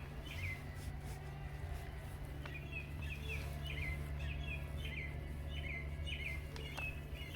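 A bird repeating the same short chirping call about twice a second, pausing once and then carrying on, over a steady low hum, with a few light knocks.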